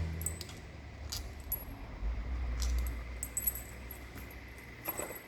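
Light metallic clinks and rattles of hand tools and loose screws being handled while the screws of a motorcycle engine's side cover are taken out.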